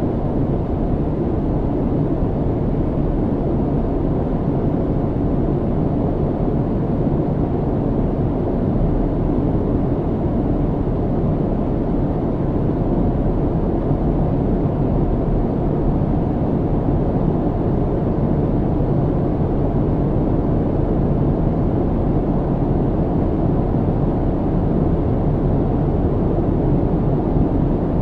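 Airplane cabin noise in flight: a steady, unbroken low-pitched noise of engines and airflow, with a faint steady hum on top.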